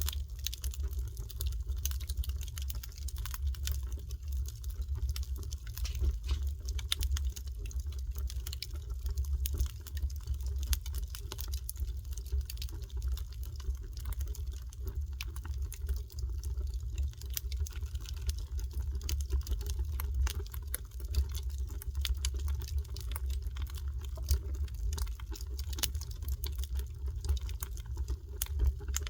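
Wood fire crackling: a dense, irregular run of sharp snaps and pops over a steady low rumble.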